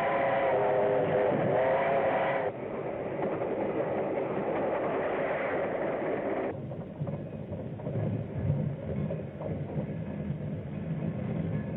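Steam locomotive whistle blowing, a wavering sound that cuts off about two and a half seconds in. The rumble and clatter of the moving train follows and turns lower and quieter about six and a half seconds in.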